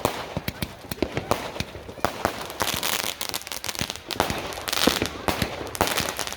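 Fireworks going off: many irregular bangs and sharp pops with crackling between them, thickest about halfway through.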